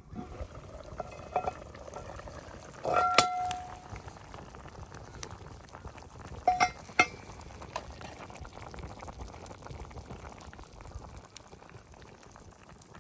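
A pot bubbling at the boil, with a metal utensil clinking against it: one loud ringing clink about three seconds in and two quicker clinks around six and a half to seven seconds.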